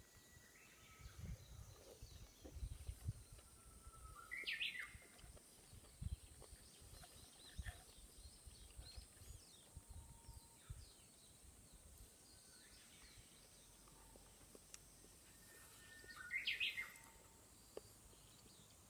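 A bird calling twice, about twelve seconds apart, each a short quick call, over faint outdoor background with a few soft low thuds in the first several seconds.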